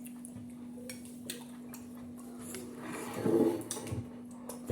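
Quiet eating at a meal table: scattered faint clicks of dishes and cutlery, with a louder muffled mealtime sound about three seconds in, over a steady low hum.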